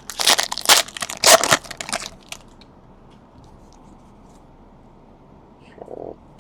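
Trading card pack wrapper torn open and crinkled, a quick run of ripping and crackling in the first couple of seconds, then only faint light ticks of cards being handled.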